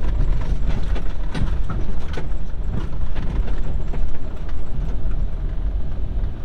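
Vehicle on the move: a steady, loud low rumble of engine and road noise with scattered knocks and rattles.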